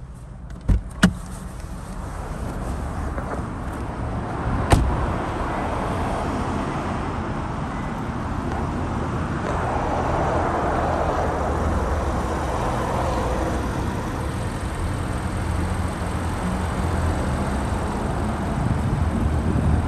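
Subaru Levorg's turbocharged boxer-four engine idling steadily after a start. Two sharp clicks come about a second in and a louder knock near five seconds.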